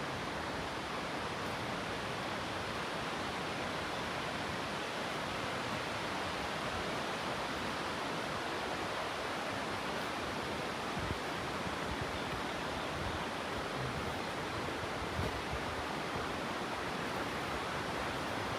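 Steady rush of falling water from a waterfall, an even hiss without any tone or rhythm.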